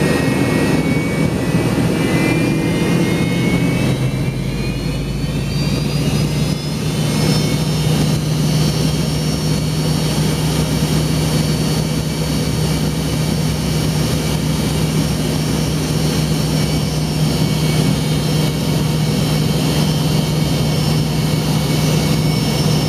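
Rear-mounted Pratt & Whitney JT8D turbofan of an MD-88, heard inside the cabin, spooling up after start: its whine rises in pitch over the first several seconds, then settles into a steady idle whine over a low hum.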